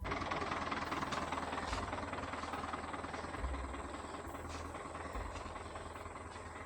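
Tractor running: a loud, dense mechanical noise with a wavering low rumble. It begins abruptly and gradually fades.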